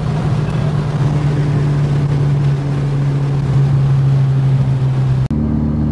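Audi S3's turbocharged 1.8-litre four-cylinder droning steadily inside the cabin at highway speed, its pitch easing a little lower twice as the car slows. About five seconds in the sound cuts abruptly to a deeper, fuller engine drone.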